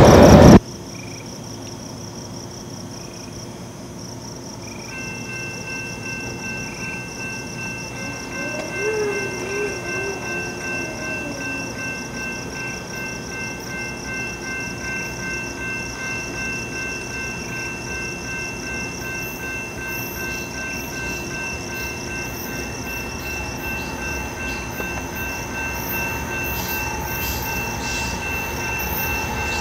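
A loud sound cuts off abruptly just after the start. Then a distant train approaches, its sound slowly growing louder, with steady high horn-like tones held from about five seconds in.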